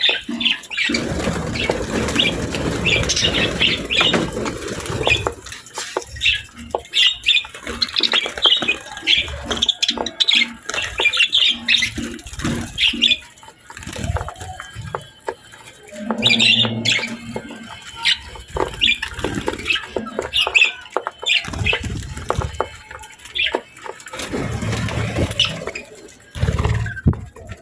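Budgerigars chirping in short, rapid bursts, with scattered sharp clicks and taps and spells of wing-fluttering rustle.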